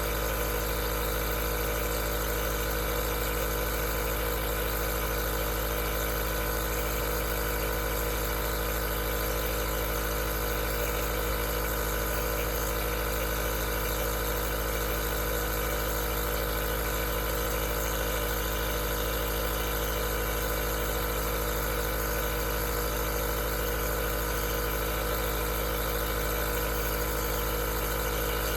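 Aerosol nebulizer running, a steady mechanical hum with several steady tones that does not change.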